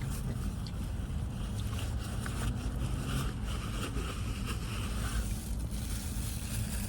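A steady low rumble with a hum, like a vehicle engine idling, with a faint hissing rustle in the middle.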